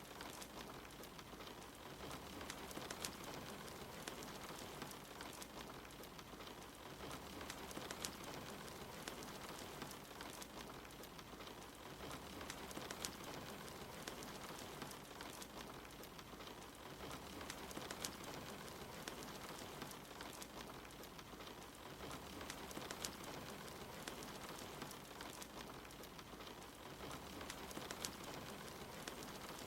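Steady rain mixed with a wood fire crackling, with scattered sharp pops every second or so.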